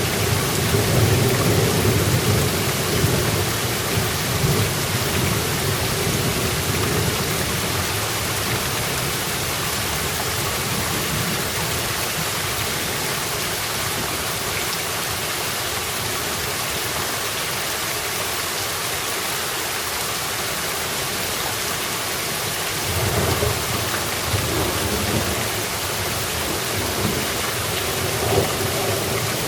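Steady rain falling through a thunderstorm. Rolling thunder rumbles at the start, fades away, and a new roll of thunder builds near the end.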